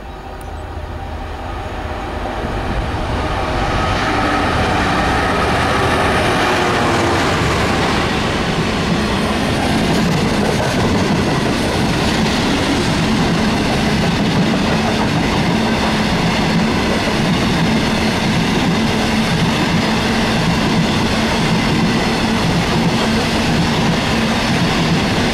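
A Class 66 diesel locomotive, its EMD two-stroke V12 working under power, draws near and passes, growing louder over the first few seconds. It is followed by a long train of coal hopper wagons rolling steadily past.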